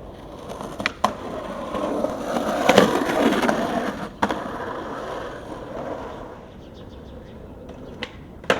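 Skateboard rolling on pavement, the wheels' rumble swelling louder for about a second around the middle, with sharp board clacks about a second in, near four seconds, and a loud clack near the end.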